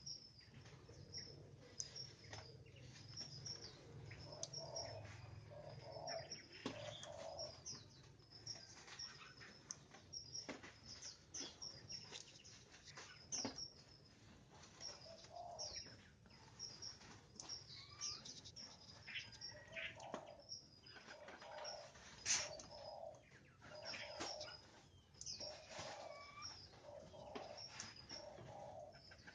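White-rumped shamas giving short, high chirps over and over, about once or twice a second, with scattered sharp clicks and some lower notes between them.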